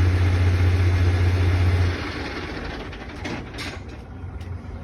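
Bin lorry's engine turning over with a steady low drone that cuts off abruptly about two seconds in, followed by a few faint clicks: the engine is failing to start.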